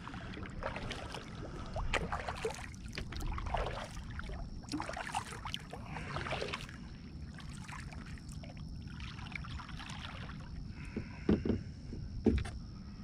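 Kayak paddling: paddle strokes splashing and dripping water, with a couple of sharper knocks against the hull near the end.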